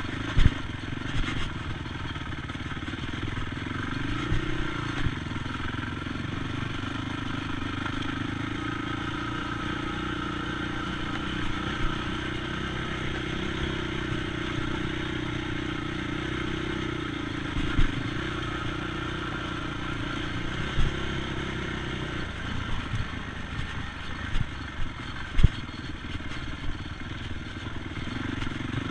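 ATV engine running at a steady throttle, its pitch lifting about four seconds in and falling away near the end, with scattered sharp knocks and clatter.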